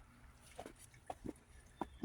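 Faint footsteps crunching in about four inches of fresh snow: a step roughly every half second or so, each a short double crunch.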